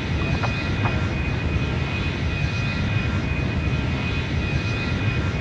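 Boeing 737 jet engines running steadily: a constant deep rumble with a thin, steady high whine above it.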